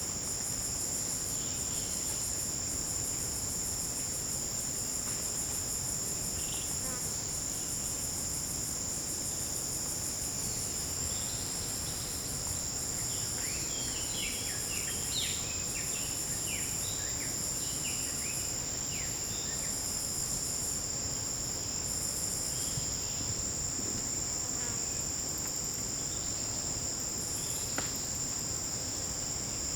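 Tropical forest insect chorus: a steady, high-pitched drone with a higher trill over it that stops and starts in blocks. In the middle, a flurry of short, quick falling chirps joins in for several seconds.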